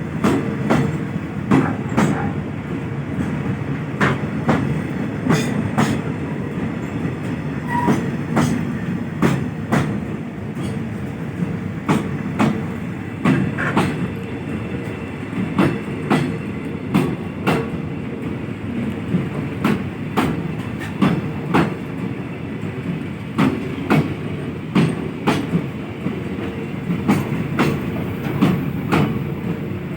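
Freight train wagons rolling along the track, their wheels clicking over rail joints in regular pairs over a steady rumble.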